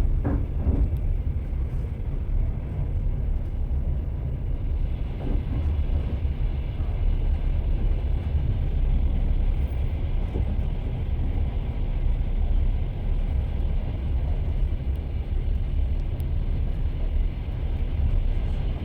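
Train wheels running on the rails: a steady low rumble, with a few knocks from the wheels near the start and one about five seconds in.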